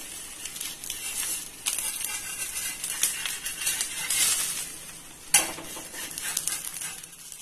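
A poli frying in ghee on a hot dosa tawa, sizzling. A metal spatula scrapes across the griddle a few times, the sharpest scrape about five seconds in.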